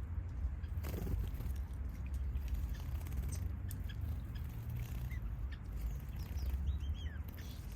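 Small aviary birds (finches and softbills) giving scattered short chirps and brief gliding calls, thickest in the second half, over a steady low rumble.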